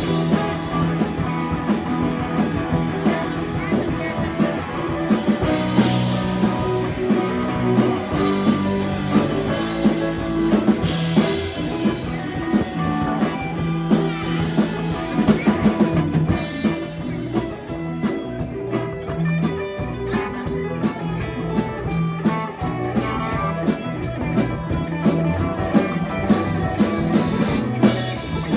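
Live rock band playing, with guitar and drum kit keeping a steady beat.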